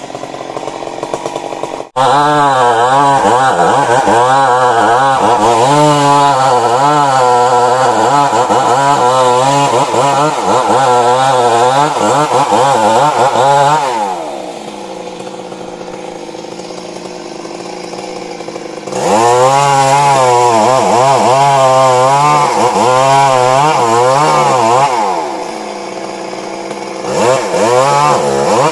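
Stihl MS 382 two-stroke chainsaw cutting wood, its engine at full throttle with the pitch wavering under load for about twelve seconds. It drops back to idle, cuts again for about six seconds, idles, and revs up once more near the end.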